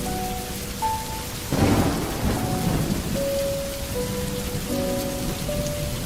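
Steady rain falling, with a clap of thunder about a second and a half in that rumbles off over the next second or so.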